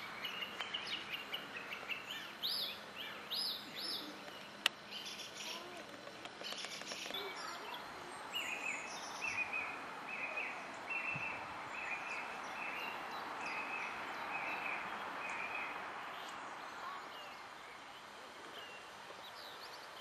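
Songbirds singing in woodland: scattered quick chirps, then one bird repeating a short note about twice a second for several seconds, over a steady outdoor hiss. A single sharp click about five seconds in.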